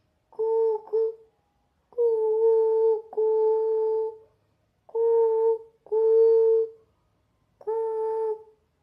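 A person imitating pigeon cooing with the voice, humming a series of seven steady "coo" notes. The first two are short and close together, and the rest are longer, about a second each, with short gaps between.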